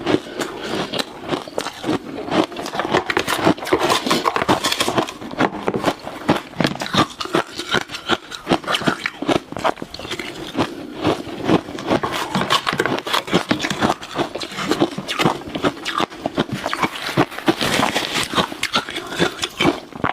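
Close-miked crunching and chewing of ice, a rapid, irregular run of cracks and crunches.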